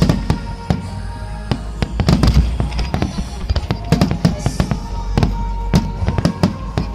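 Fireworks shells bursting in quick, irregular succession, sharp bangs and crackles over a low rumble, with music playing underneath.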